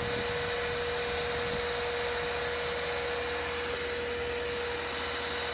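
A steady mechanical hum: one constant whining tone over an even hiss, unchanging throughout.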